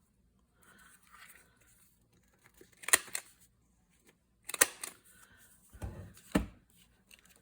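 Scissors cutting paper: a few sharp snips with faint paper rustling, and a couple of low bumps on the work surface near the end.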